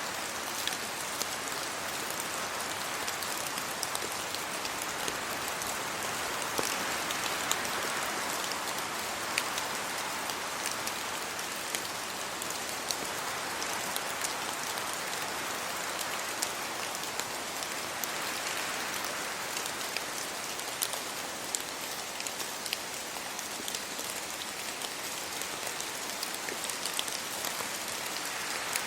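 Steady rain falling on a road and on tree leaves, with many individual drops ticking. The rush swells and eases every few seconds as wind moves through the trees.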